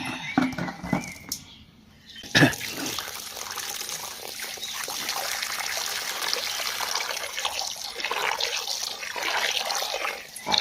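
A few knocks, then, about two seconds in, a splash. After it, water runs steadily into a container.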